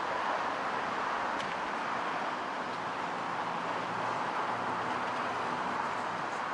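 Steady hiss of road traffic.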